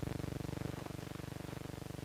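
Steady low buzz with many overtones, flickering rapidly in loudness: hum on the film's optical soundtrack over the leader between spots.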